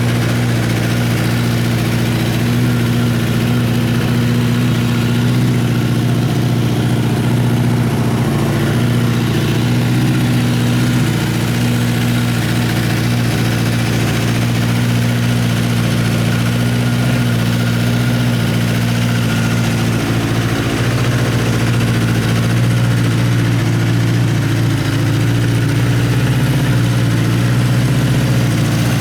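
Honda CBX550F2 Integra motorcycle's air-cooled inline-four engine idling steadily, with no revving.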